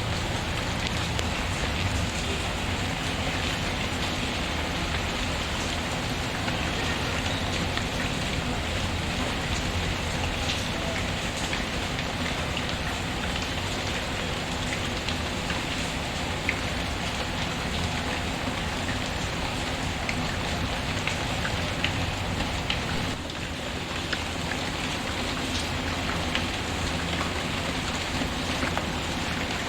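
Steady rain falling on a surface, an even hiss with scattered sharp ticks; it goes briefly softer about two-thirds of the way through.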